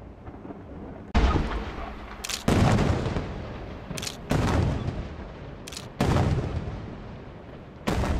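Aerial firework shells bursting: five loud bangs about every one and a half to two seconds, each trailing off in a rolling echo, with a sharper, thinner crack just before several of them.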